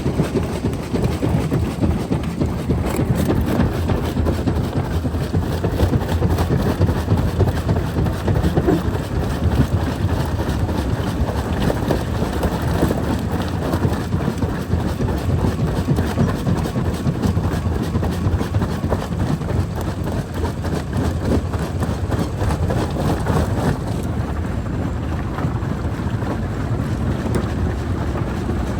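Jaw crusher crushing rock: a loud, continuous rumble full of rapid cracks and knocks as stone breaks between the jaws. The sharper crackle thins out about 24 seconds in.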